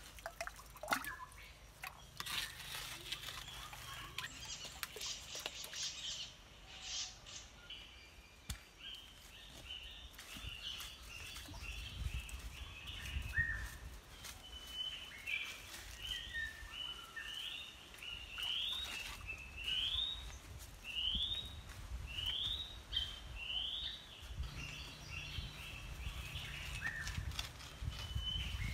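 A bird calling repeatedly: a series of short rising chirps, about one a second, through the second half, with scattered clicks and knocks throughout.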